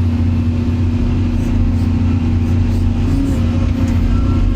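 Excavator's diesel engine running steadily with a deep, even drone.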